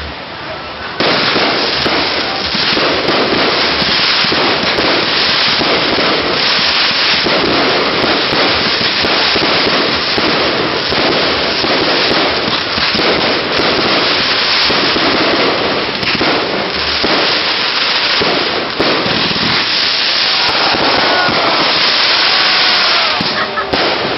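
Campfire burning and crackling hard, a dense run of sharp pops and snaps over a steady rushing hiss.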